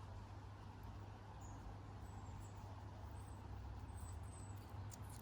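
Faint steady low hum with a few faint, short, high-pitched bird chirps.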